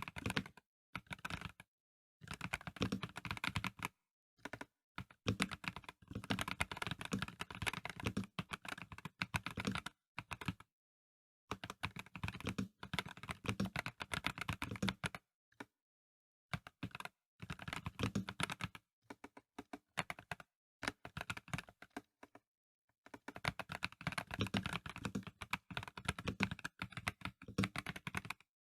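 Typing on a Dareu A98 Pro mechanical keyboard with non-clicky VioletGold Pro linear switches: rapid runs of keystrokes in bursts of several seconds, broken by short pauses.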